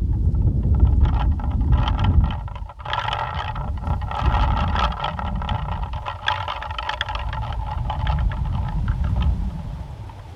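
Plastic pinwheel spinning in strong wind, a whirring buzz with rapid clicking that swells in the middle and fades near the end. Gusty wind rumbles on the microphone underneath.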